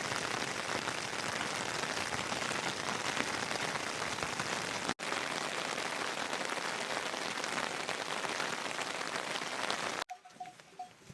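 Heavy rain falling steadily, a dense pattering of drops on a surface, with a momentary break about halfway and an abrupt stop near the end. After it stops, faint short ringing tones follow.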